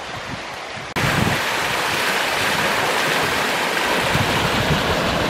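Rushing river water, a steady, dense noise of flowing water that comes in suddenly about a second in after fainter outdoor ambience.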